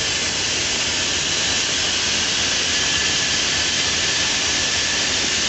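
Steady, loud rush of water, with no pauses or changes.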